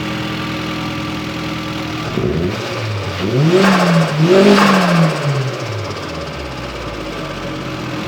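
Honda B18C 1.8-litre DOHC VTEC four-cylinder in a DC2 Integra Type R idling steadily, then blipped twice in quick succession about two seconds in: the revs climb, dip briefly, climb again, and settle back to idle by about six seconds.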